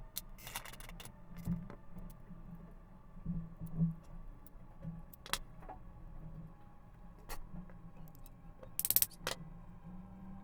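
Scattered sharp clicks and light taps of small metal parts and hand tools being handled during a vacuum cleaner motor repair, over a low steady hum; the loudest cluster of clicks comes near the end.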